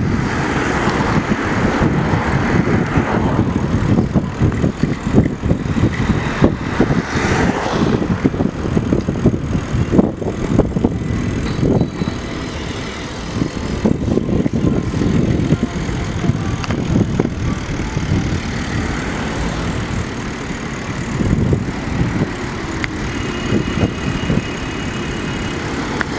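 Street traffic with cars passing, under a constant loud rumble on the microphone.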